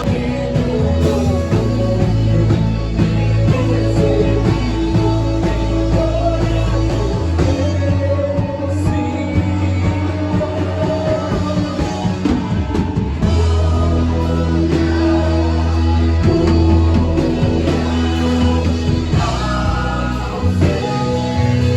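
A band playing with singing over it: sustained bass notes, guitar and drums, running continuously.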